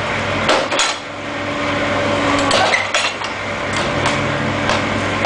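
Motor-driven brick-making press for soil and cement bricks running with a steady hum, with sharp metallic knocks and clanks every second or so as it works through its pressing cycle.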